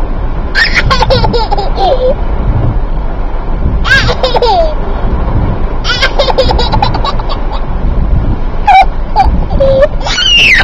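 Baby laughing in several separate bursts of high, bending giggles over a steady low rumble, inside a car cabin.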